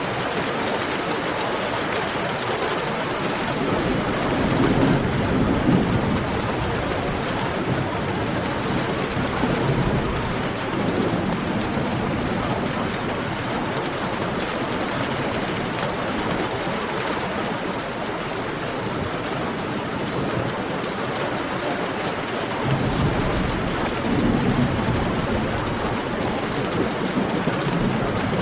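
Heavy rain falling steadily in a dense, even hiss. Two low rumbles of thunder swell up, about five seconds in and again near the end.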